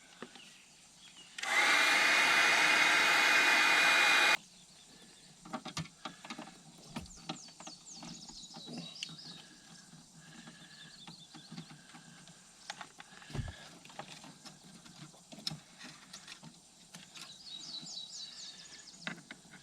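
A power drill runs steadily for about three seconds, then stops abruptly. Scattered light clicks and knocks of hand tools on the tub's plumbing and fittings follow.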